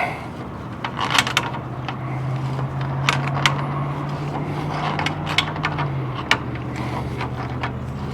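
Irregular metallic clicks and scrapes from hand tools working a dirt-packed drag link loose at its pin, over a steady low hum.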